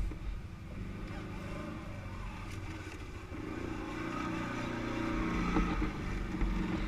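ATV (quad bike) engine running under way, its revs climbing gradually through the middle and then easing off.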